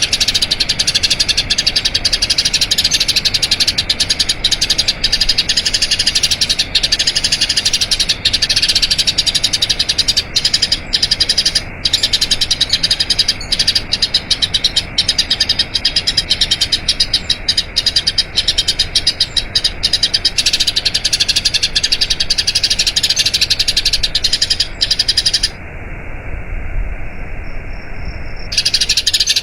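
Eurasian tree sparrow chattering in a long, unbroken run of rapid, high chirps. The chirping cuts out for about three seconds near the end, then resumes.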